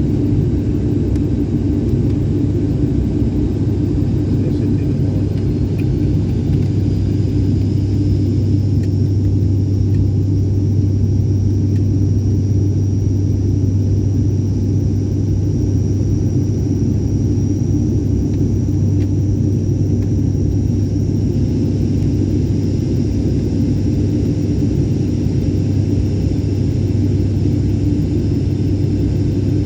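Steady low drone of an airliner's engines heard inside the cabin during the landing approach. A faint high whine comes in several seconds in and fades out later.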